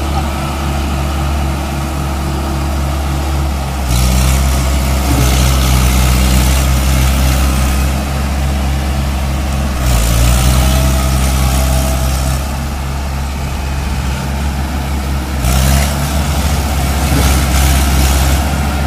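Mahindra tractor's diesel engine running steadily. It grows louder three times, as if revved or pulling harder under load.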